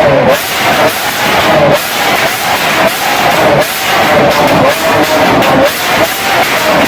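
Lamborghini Aventador LP700's V12 with an Fi exhaust held at high revs and blipped over and over, its pitch dipping and climbing back about once a second.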